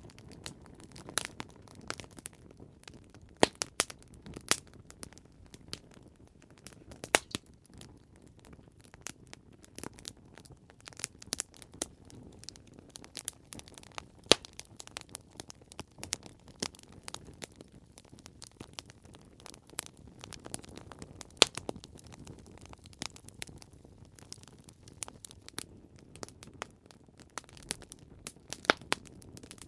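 Campfire burning with irregular crackles and sharp pops of burning wood over a soft low rumble of the flames.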